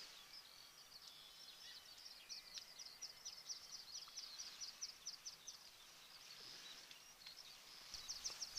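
Small songbirds singing faintly: high chirps and a quick series of short repeated notes, about six a second, through the middle, with another fast run near the end.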